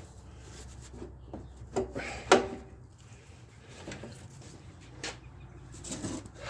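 Scattered knocks, clunks and scraping from tools and parts being handled while a lawn mower front axle is worked on, the loudest two knocks close together about two seconds in.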